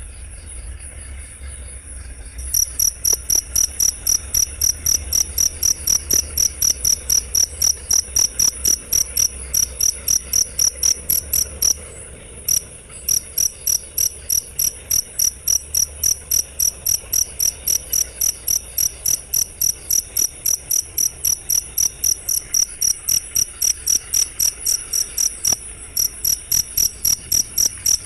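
Cricket chirping in a fast, even rhythm of about three to four high chirps a second, starting loud about two and a half seconds in after fainter chirping, with short breaks about twelve and twenty-six seconds in. A steady low hum runs underneath.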